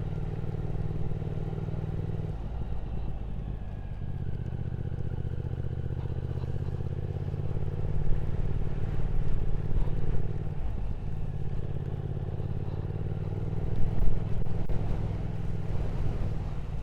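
Triumph Speed Twin 1200 parallel-twin engine running steadily under way, with wind noise on the microphone. The engine note drops away briefly about two seconds in and again near eleven seconds, then picks up again.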